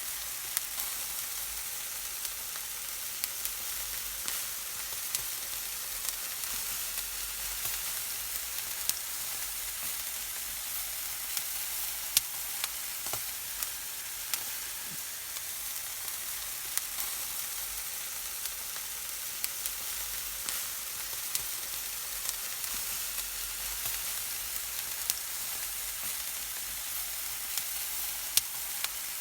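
Chops and merguez sausages grilling over a wood fire, fat sizzling steadily, with scattered sharp pops and crackles.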